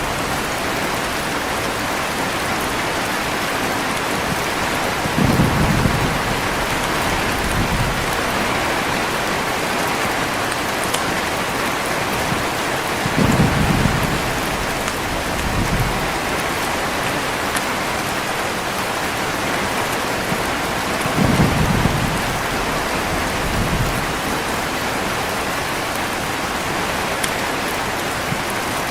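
Heavy rain falling in a steady hiss, with short low rumbles of thunder three times, about eight seconds apart.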